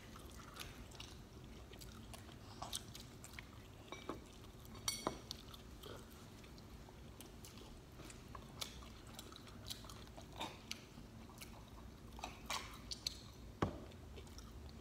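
Close-up chewing of pizza: soft wet mouth sounds with scattered small clicks and crackles. A few sharper clicks stand out, one about five seconds in and the loudest near the end.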